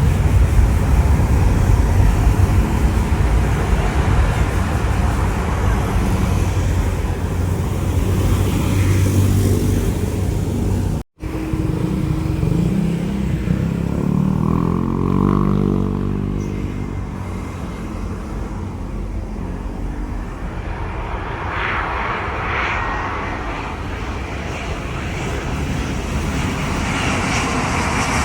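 Airliner engines rumbling loudly as an aircraft passes. About eleven seconds in the sound drops out for an instant and picks up again, quieter, with a pitched engine whine that shifts in pitch for a few seconds.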